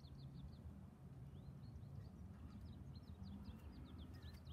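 Faint outdoor ambience: small birds chirping many times over a low steady rumble.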